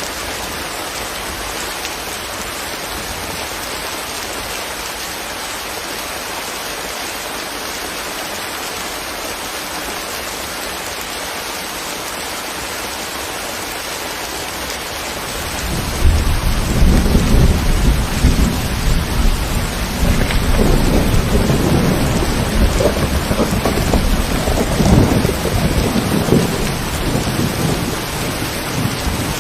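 Steady rain falling as an even hiss. About halfway through, a long low rumble of thunder rolls in and carries on, easing a little near the end.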